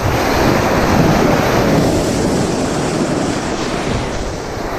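Continuous rushing noise of a fast slide down an icy slope: wind buffeting the microphone with scraping over the ice, starting abruptly and easing off slightly toward the end.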